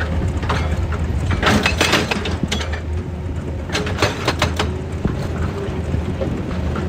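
Excavator engine running steadily, with two bursts of cracking and clattering, about a second and a half in and again about four seconds in, as rock and earth break and tumble.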